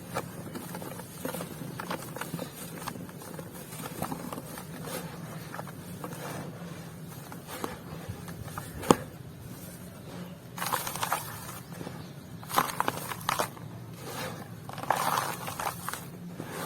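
Lumps of dry, crumbly material being crushed and broken apart, with scattered small crackles and one sharp snap about nine seconds in. Three bursts of gritty crumbling follow in the second half.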